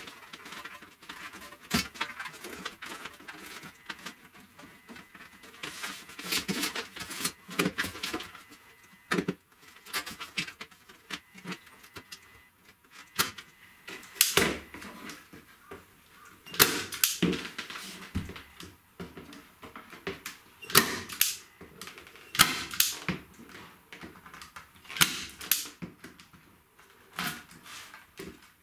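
Irregular clicks, taps and knocks with some rustling: hand work on a guitar amp cabinet while its grille cloth is fitted.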